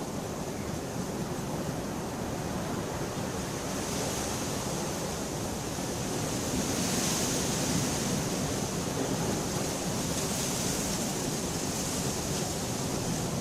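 Steady heavy rain, a dense even hiss that swells for a few seconds around the middle.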